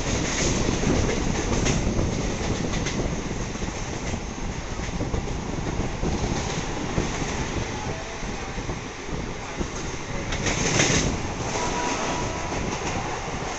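Mumbai suburban fast train running on the Western Railway line: a steady rumble with wheels clattering over the rails, getting louder about ten seconds in.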